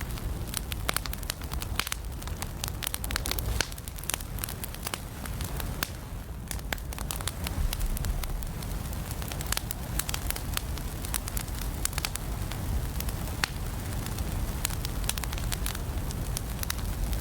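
Wood fire burning in an indoor fireplace: many sharp, irregular crackles and pops over a steady low rumble of the flames.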